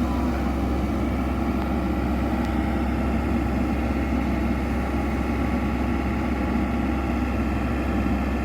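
Excavator's diesel engine running steadily with an even, unchanging hum.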